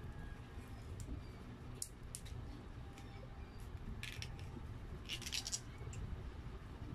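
A person eating pizza close to the microphone: chewing and mouth sounds, with short crisp crackles, the loudest clusters about four and five seconds in, over a steady low hum.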